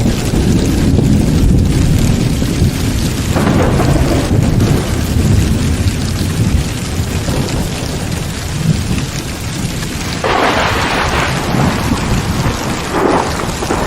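Heavy rain with thunder rumbling low and continuously, and brighter rushes of sound about ten seconds in and again near the end.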